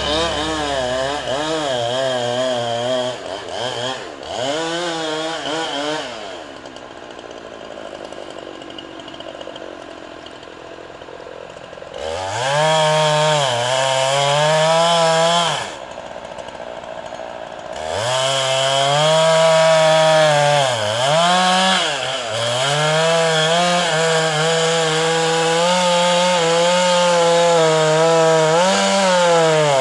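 Chainsaw running and cutting, its engine revving up and dropping back again and again; it runs quieter for several seconds in the first half, falls off briefly past the middle, then revs hard again.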